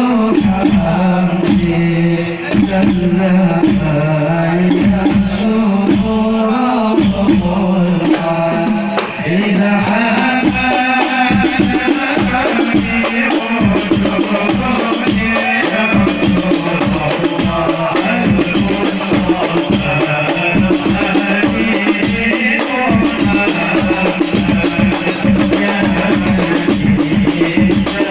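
Hadroh ensemble of frame drums with jingles playing a quick, steady rhythm under group singing of a devotional melody. About ten seconds in the percussion grows denser and the jingling brighter.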